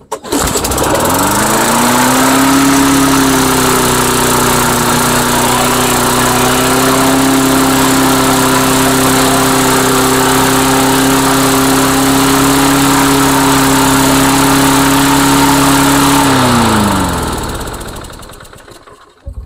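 Mastercraft lawnmower's single-cylinder engine starting and quickly climbing to a high, steady speed, racing out of control because its governor linkage is sticking. About sixteen seconds in it is shut off and winds down to a stop.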